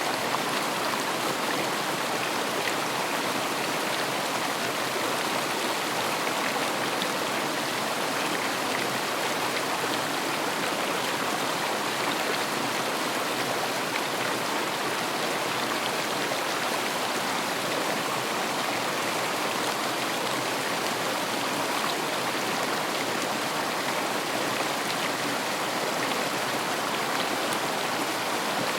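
River water flowing over stones, a steady rushing and splashing.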